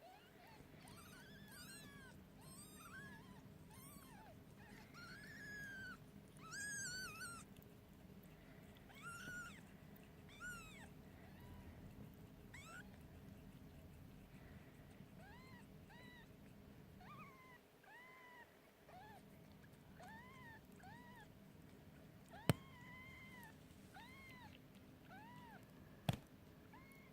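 A litter of kittens mewing over and over, thin high mews that rise and fall, several at once in the first ten seconds or so and fewer after. Two sharp clicks cut in near the end.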